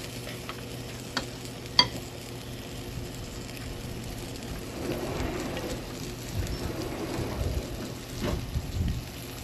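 Meat sizzling on a portable grill, a steady frying hiss, with two light clicks in the first two seconds and a few soft knocks from handling in the second half.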